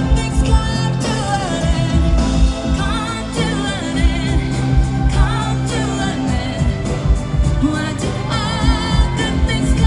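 Live pop music: a woman singing lead, with wavering held notes, over a band with steady bass and beat.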